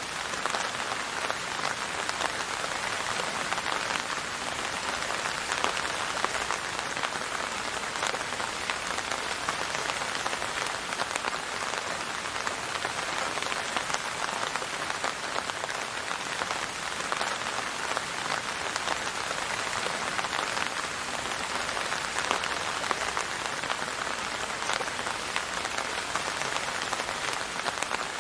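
Steady rain falling: an even hiss of rain on a surface, flecked with many small drop ticks.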